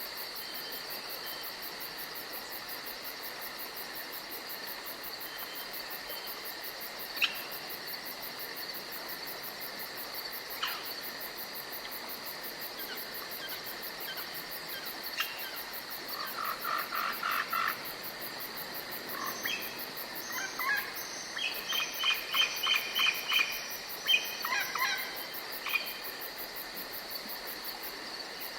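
Forest ambience: a steady high insect drone throughout, with a few sharp single bird calls and then, past the middle, bursts of rapid repeated bird notes that are the loudest sounds.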